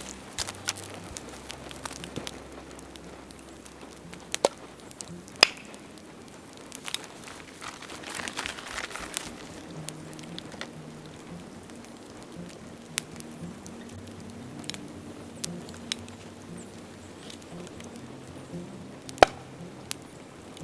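Dry bamboo burning in a bonfire, with sharp cracks and pops at irregular intervals; the loudest comes near the end. Faint low background music plays underneath.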